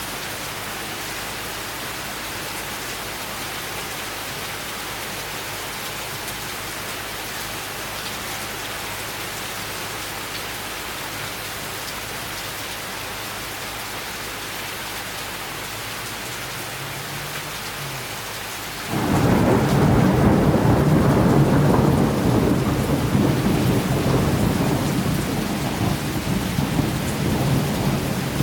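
Steady summer rain falling, then about two-thirds of the way through a sudden loud thunderclap breaks out and rolls on as a heavy rumble that slowly eases.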